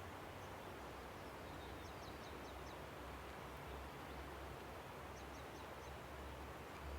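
A river rushing steadily, with a bird giving two short runs of quick, high chirps, about two and five seconds in.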